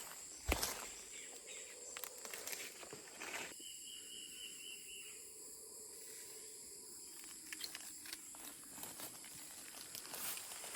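Rainforest insects droning in several steady high-pitched tones, one more joining briefly around the middle, with scattered rustles and clicks and a sharp knock about half a second in.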